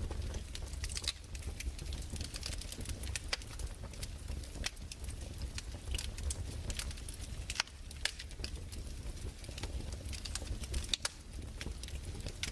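Fireplace fire crackling: irregular sharp snaps and pops over a steady low rumble.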